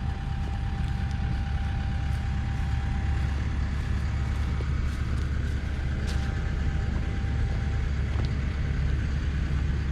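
Cat 313 excavator's diesel engine running steadily, with a faint steady whine in the first half and a few light ticks.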